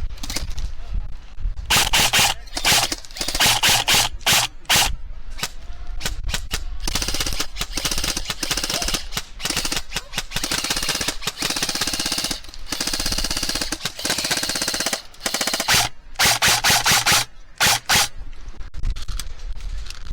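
Airsoft guns firing full-auto: short bursts early on, a long run of near-continuous rapid fire through the middle, and more bursts near the end.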